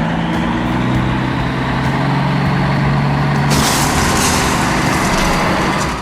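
Truck engine sound effect running loud and steady with a low hum, joined about three and a half seconds in by a loud hissing rush like an air brake.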